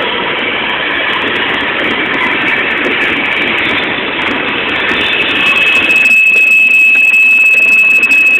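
Freight cars, tank cars and scrap cars, rolling past on steel wheels and rails with a steady heavy rumble. About five seconds in, a steady high-pitched wheel squeal sets in and holds.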